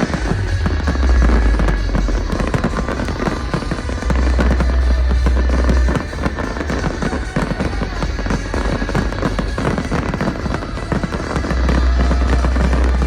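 Fireworks bursting and crackling in rapid succession, over loud electronic dance music with long, deep bass notes that come and go every few seconds.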